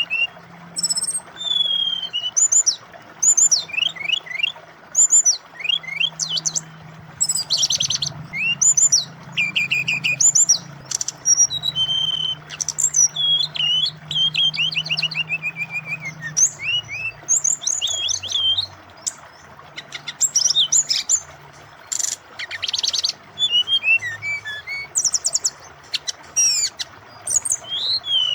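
Brown-chested jungle flycatcher (sikatan rimba dada coklat) singing a rapid, varied song of quick sweeping notes and trills with short pauses, over the steady sound of running water.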